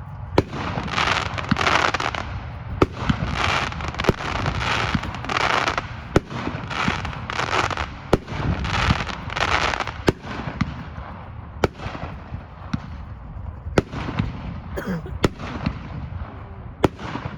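Consumer aerial fireworks item 'Kaleidoscopic' firing: sharp reports every second or two, with rapid pulses of hiss between them that thin out after about ten seconds.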